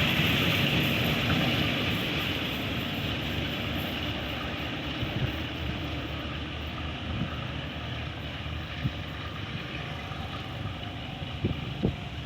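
Passenger train rolling away along the track, its wheel and rail noise fading steadily, with a few faint clicks near the end.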